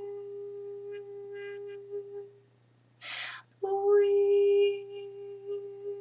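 A woman's voice toning a long, steady, pure-sounding held note. It fades out a little over two seconds in, followed by a brief audible inhale, and a second held note at about the same pitch begins.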